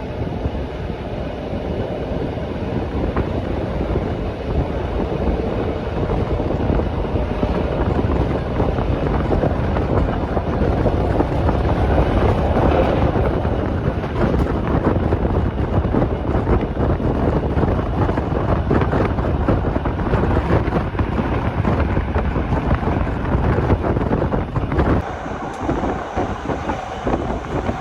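Rhaetian Railway regional train running on the Bernina line, heard from on board: a steady rumble of wheels on rail with constant rattling, louder in the middle, and the low rumble thins out near the end.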